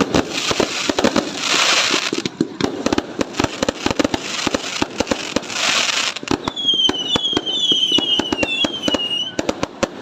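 Fireworks going off in a dense run of sharp cracks and bangs, with two swells of hissing crackle. From about two-thirds of the way through, a string of short, high, gliding whistles is heard for about three seconds.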